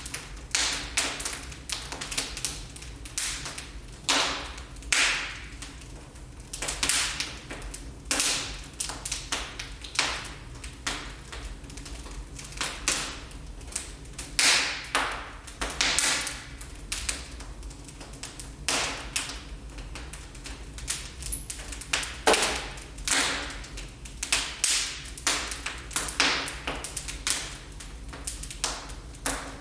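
Wood fire crackling in a fireplace: irregular sharp pops and snaps, several a second, some louder than others, over a low steady rumble.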